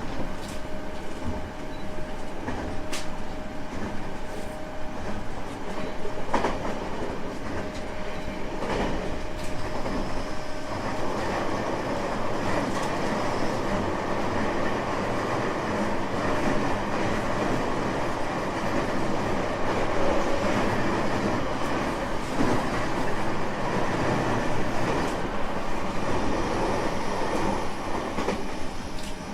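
225 series 5000 subseries electric train running, heard from on board: wheels rumbling on the rails with a few sharp rail-joint clicks. A steady tone stops about ten seconds in, and the rumble grows louder from then on.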